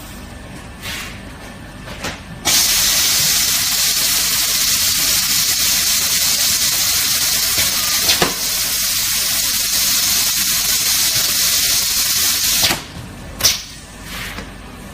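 Refrigerator gasket welding machine letting out a loud, steady hiss of air for about ten seconds, starting and stopping abruptly, with a few short clicks before and after it.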